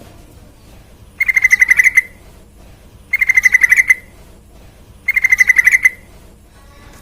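Yellow-vented bulbul (trucukan) singing: three loud, quick phrases about two seconds apart, each a rapid run of bubbling repeated notes lasting under a second.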